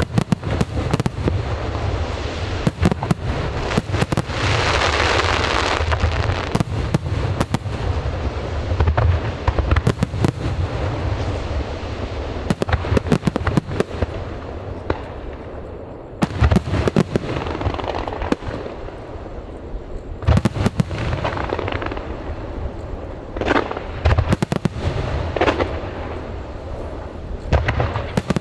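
Large aerial fireworks display: shells bursting in quick succession with deep booming bangs and a low rumble, and a dense crackling hiss about four seconds in.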